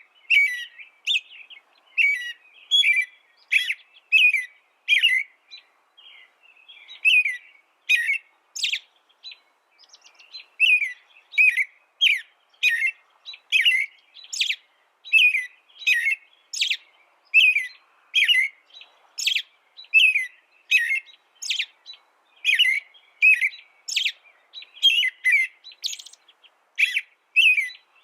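A small songbird chirping over and over: short, high, separate chirps about one to two a second, with a couple of brief lulls.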